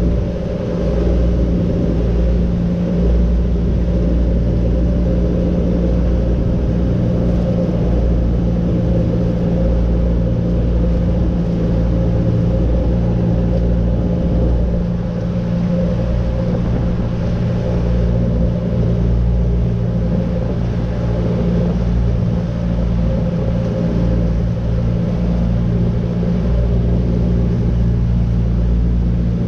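An engine running steadily at a constant speed, a low, unchanging drone that holds for the whole half-minute.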